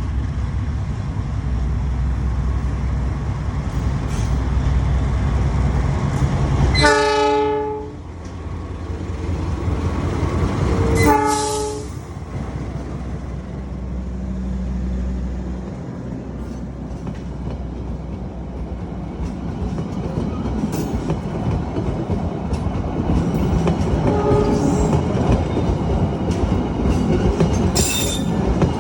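Malabar passenger train pulling into Malang station: the diesel locomotive's low engine rumble, two horn blasts of about a second each, early on and about 11 seconds in, then wheels clattering over the rail joints as the carriages roll past.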